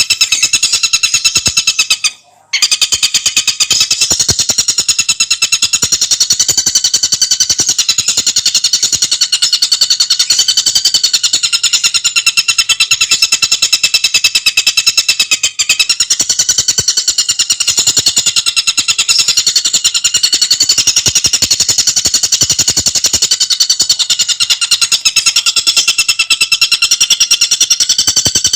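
Tengkek buto bird calling in a continuous, very fast rattling chatter of high notes, with one brief break about two seconds in.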